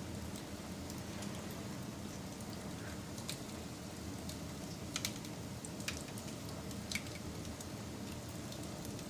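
Wood fire crackling: a steady low rush of burning with sharp pops and snaps scattered through, the loudest few bunched around the middle.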